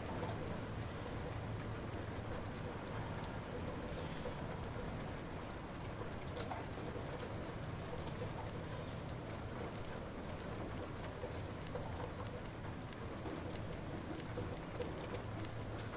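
Light rain falling steadily, with scattered drops ticking and a low, steady rumble underneath.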